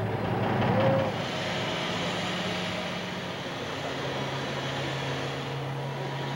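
Mobile crane's engine running steadily under load, a low hum that drops to a lower pitch about four seconds in.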